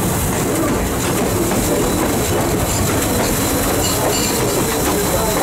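Steady running noise of a steam train under way, heard from an open car coupled to the front of Norfolk & Western locomotive 475: wheels rumbling and clicking along the rails.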